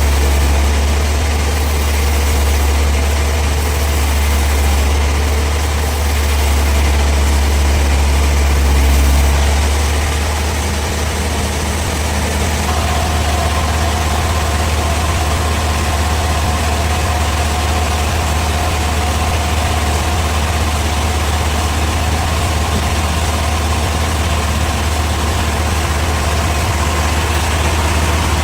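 Bandsaw sawmill machinery running steadily with a deep low hum. About a third of the way in the hum eases slightly, and soon after a higher steady whine joins it.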